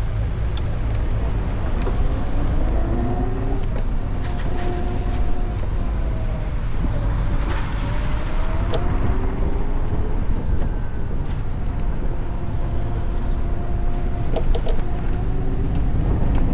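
Traffic and wind noise on an electric motorcycle riding through city traffic: a steady low rumble, with the hums of vehicles and motors slowly rising and falling in pitch, and a few short clicks.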